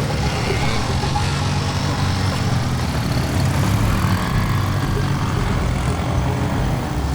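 Steady low rumble of a running motor vehicle, engine and road noise.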